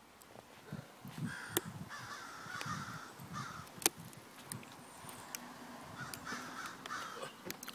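Faint bird calls repeated a few times, with several sharp clicks scattered among them.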